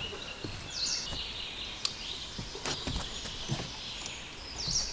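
Birds calling outdoors: two short, high chirps with quick sweeping pitch, about a second in and near the end, over a faint high trill. Scattered knocks and taps sound in between.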